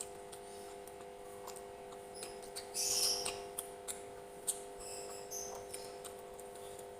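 A person eating close to the microphone: wet mouth smacks, chewing clicks and small squelches, the loudest about three seconds in, over a steady low electrical hum.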